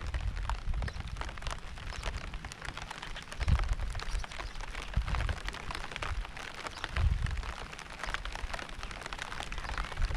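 Steady rain with many individual drops ticking and pattering, broken several times by short low rumbles, the strongest about three and a half seconds in.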